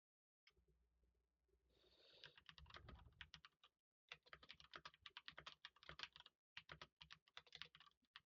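Faint typing on a computer keyboard: quick runs of key clicks that pause briefly twice.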